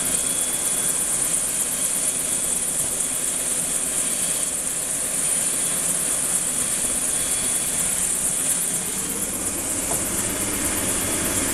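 Helicopter running on the ground close by, its turbine and rotors making a steady loud whine and fast rotor beat.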